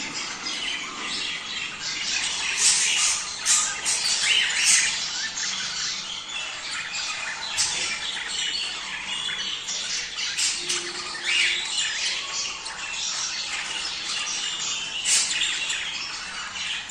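Budgerigars chattering: a dense, unbroken stream of warbles, chirps and sharp squawks from several birds at once, the flock chatter played to encourage budgies to breed.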